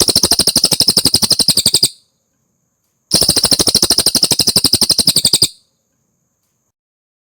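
A cililin singing two long, fast, even trills of rapidly repeated high notes, each a little over two seconds long, about a second apart, with silence after the second.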